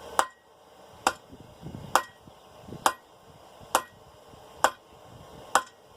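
Hand hammer striking a hot half-inch round steel bar on the anvil: seven blows at an even pace, a little under a second apart, each with a short metallic ring.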